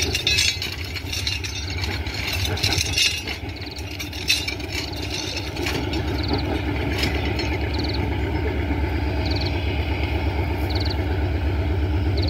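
Locomotive of an approaching train, heard as a low rhythmic rumble that grows steadily louder. A few sharp knocks come in the first seconds, and a short high chirp repeats about every second and a half.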